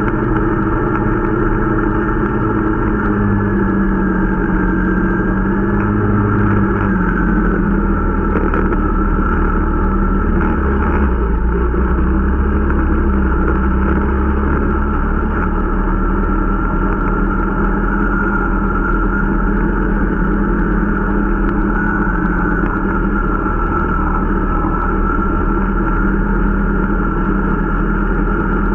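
Irbis Dingo T125 snowmobile's small single-cylinder four-stroke engine running steadily under way during its break-in, the engine note shifting slightly up and down with the throttle.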